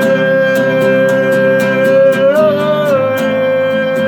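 Guitar strummed steadily, about three strokes a second, under a long held sung note that bends and wavers about two seconds in, then settles again.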